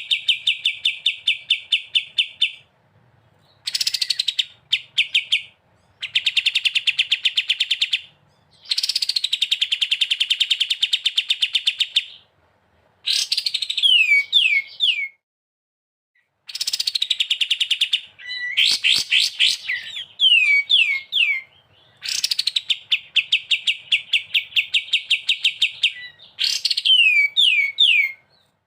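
A small songbird singing repeated phrases of fast, even trills, each lasting a few seconds, some ending in three or four sharp downward-sliding notes, with brief silent gaps between phrases.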